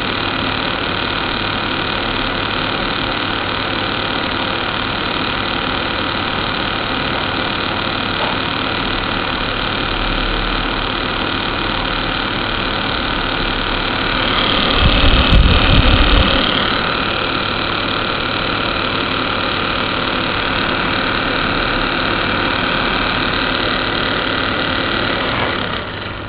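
Air conditioner running with a steady mechanical hum and whir. Its sound swells for a couple of seconds about halfway through, with a low rumble, and it falls away shortly before the end.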